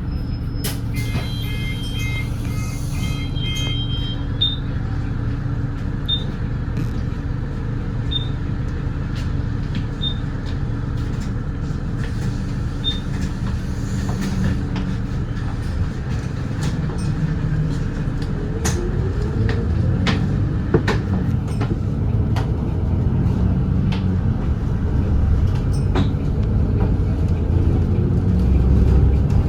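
Volvo B8RLE double-decker diesel bus engine running steadily at speed. Its note climbs around two thirds of the way through and again near the end as the bus pulls harder, and the overall level grows slightly. A short run of electronic beeps sounds just after the start.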